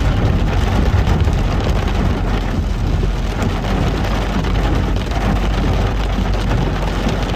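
Heavy rain pattering steadily on a moving car, over a constant low rumble of engine and tyres on the wet road.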